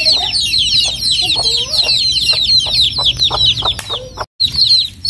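A brood of baby chicks peeping continuously, many high, short, falling peeps overlapping, with a few lower clucks from a hen underneath. The sound cuts out completely for a moment about four seconds in.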